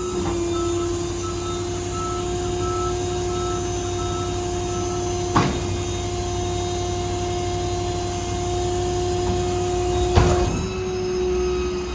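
Stellar 7621 hydraulic crane on a Ford F-550 service truck in operation, with a steady whine from the hydraulic drive. A fast repeating beep sounds for the first few seconds, and two sharp knocks come about five and ten seconds in.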